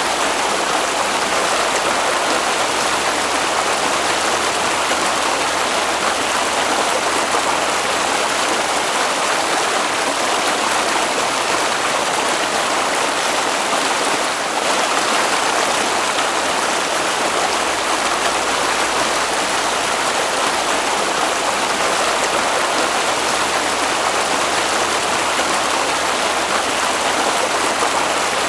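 Flowing water in a stream, rushing steadily without a break.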